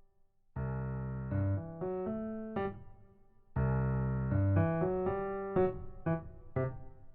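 Background music: a piano-like keyboard playing a slow melody over chords, in two phrases, the first starting about half a second in and the second about three and a half seconds in.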